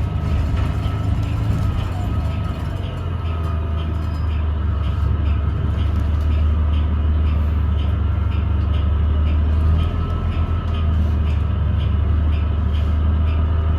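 Ride noise heard inside a 2017 New Flyer XDE40 diesel-electric hybrid bus under way: a steady low drivetrain rumble with a steady high whine over it and faint regular ticking, about two or three ticks a second. It is the odd sound that the rider suspects comes from the transmission, or from a loose screw or panel.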